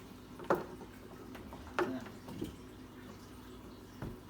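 Light clicks and knocks of the plastic parts of a tabletop fountain being handled and fitted together, a handful of separate taps with a duller thump near the end.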